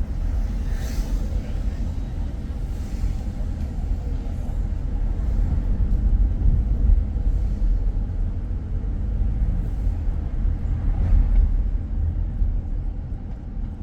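Steady low rumble of a car driving, with road and engine noise, and a few brief swells of hiss, as of passing traffic.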